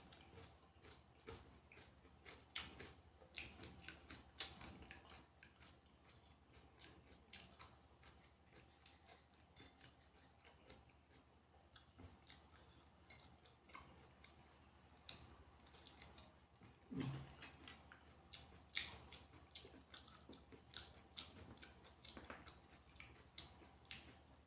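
A person quietly chewing and biting food, with many small crisp clicks and crunches scattered through, and a louder thud about 17 seconds in.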